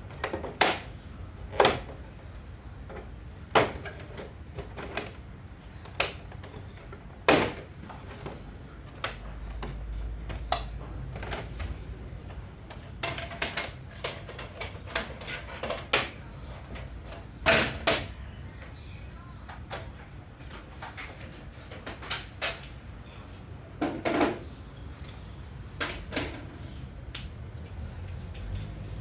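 Irregular clicks, knocks and clatters of hard parts and tools being handled while working on a split air conditioner, about half a dozen sharp strikes louder than the rest with smaller taps between, and a brief low rumble about a third of the way in.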